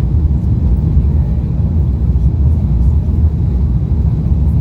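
Steady low rumble inside the cabin of an Airbus A350-900, from its Rolls-Royce Trent XWB engines and the airflow.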